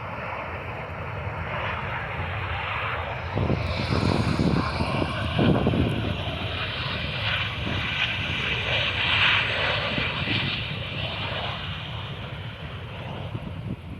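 Jet engine noise of a Boeing 717 airliner landing, from its two rear-mounted Rolls-Royce BR715 turbofans. It builds as the plane approaches, is loudest a few seconds in, then fades as the aircraft moves away.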